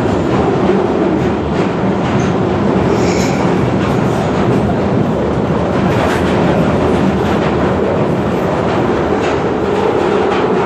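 London Underground Central line train (1992 Tube Stock) running between stations, heard from inside the carriage: a loud, steady rumble of wheels on the rails with a few faint clicks.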